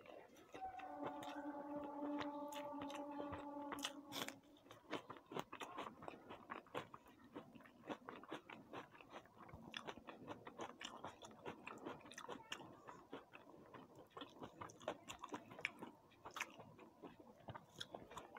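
Close-miked chewing of fried rice and chicken kosha: a dense run of small wet clicks and crunches of a mouth eating. From about half a second to about four seconds in, a steady pitched tone is held over it, the loudest sound here.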